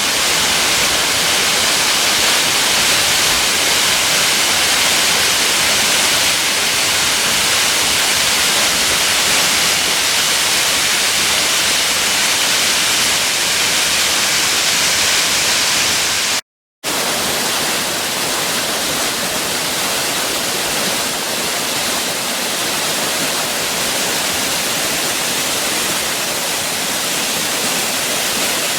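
Steady rush of running water with no pitch or rhythm. It drops out completely for a moment about sixteen seconds in, then goes on a little quieter.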